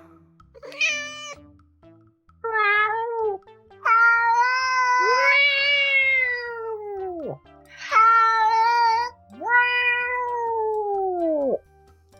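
A cat meowing five times in drawn-out calls, the longest lasting about three seconds; the longer calls drop in pitch at the end.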